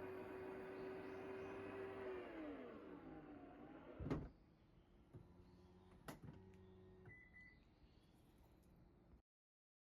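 Toyota Harrier 80-series power rear gate (powered tailgate) in motion: its electric drive motor hums steadily, then slows with a falling pitch, and the gate shuts with a thump about four seconds in. A quieter motor hum and a couple of clicks follow, with a short beep near the end.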